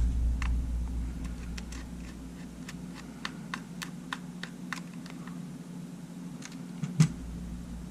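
Light, irregular clicks of a precision screwdriver and small metal parts as a tiny screw is worked out of a camera body's battery compartment, with one louder knock about seven seconds in, over a steady low hum.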